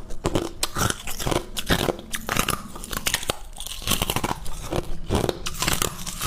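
Close-miked biting and chewing of crunchy crushed ice, with a rapid, irregular run of sharp crunches and crackles.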